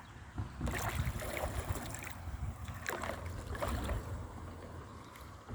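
Wind buffeting the microphone in a steady low rumble, with a few short splashes of water from a kayak paddle.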